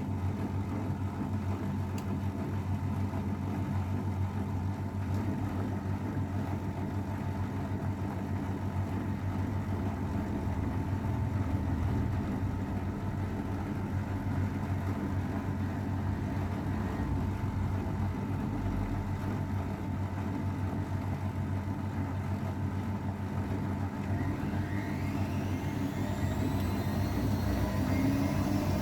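AEG Öko_Lavamat 693 washing machine running with a steady motor hum, then a rising whine near the end as the drum speeds up.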